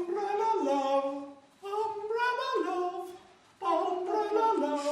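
Unaccompanied singing: three sung phrases of held notes that step in pitch, separated by short pauses.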